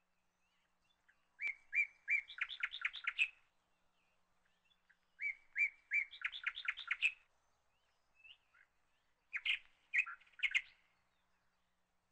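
A songbird singing in three bouts: twice the same phrase of a few clear notes running into a quick trill, then a shorter burst of notes near the end.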